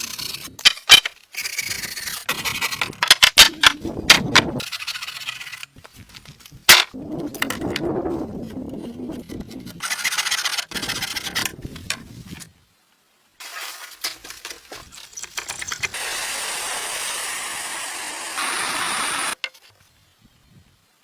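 Sharp knocks and clicks alternating with stretches of scraping or rubbing noise, in short segments that start and stop abruptly. Near the end a longer, steady scraping runs for a few seconds and then cuts off suddenly.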